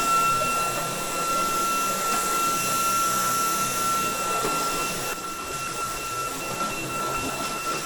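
ROIDMI X200 cordless stick vacuum running at full suction while vacuuming. It makes a steady high-pitched motor whine over a rushing airflow hiss, with a slight drop in level about five seconds in.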